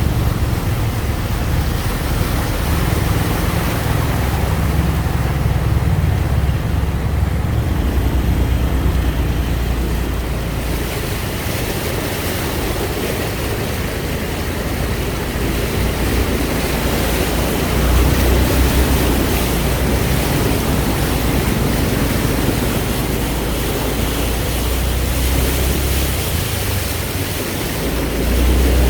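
Storm wind blowing hard, buffeting the microphone with a heavy uneven rumble over a steady rush of water.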